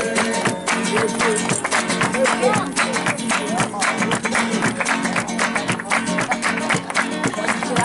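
Live flamenco-style acoustic guitar music, strummed in a fast, steady rhythm.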